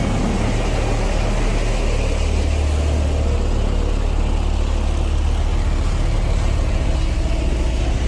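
Heavy diesel engine of construction machinery running steadily, its sound mostly deep and low.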